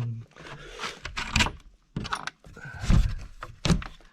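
Handling sounds of going out through a door: a string of knocks, scrapes and rattles with a brief squeak a little after two seconds, the loudest thump about three seconds in.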